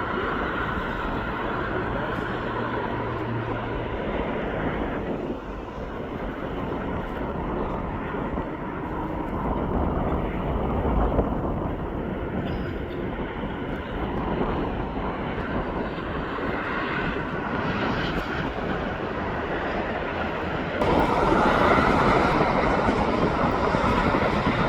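Jet airliner engine noise at an airport: a steady rumble and hiss that grows suddenly louder near the end.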